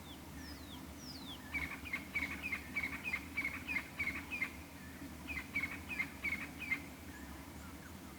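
Wild bird calling: a few thin, falling whistles, then a rapid series of short repeated notes, about four a second, in two runs with a brief pause between. A steady low hum runs underneath.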